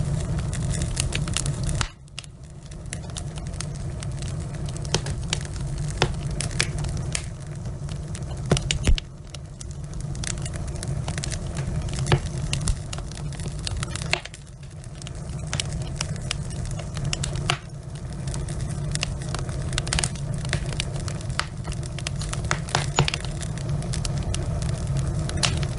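Wood fire burning in a fireplace: logs crackling with many sharp, irregular pops over a steady low rumble, briefly quieter a few times.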